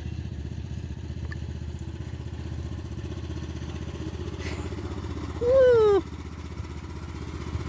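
Tractor engine running steadily with a fast, even firing rhythm. About three-quarters of the way in, a person's loud, falling 'ooh' rises over it.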